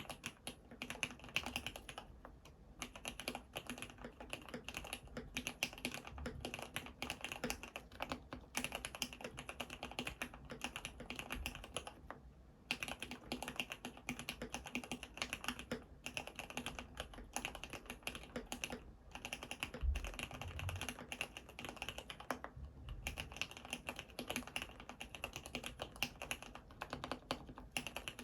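Typing on an ABKO AR87 full-aluminium CNC mechanical keyboard with lubed Cherry MX Red (black-housing) linear switches and Cherry-profile PBT keycaps: a fast, continuous run of keystrokes. It pauses briefly three times, roughly every ten seconds.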